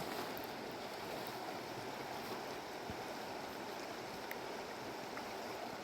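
Mountain river flowing: a steady rushing wash of running water.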